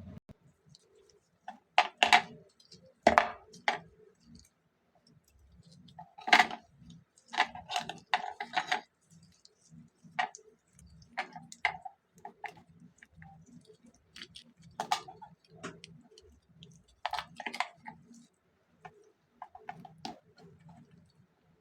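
Irregular sharp clicks and taps, singly and in short clusters, of small tools and plastic parts being handled while a pair of wireless earbuds is opened for a battery change.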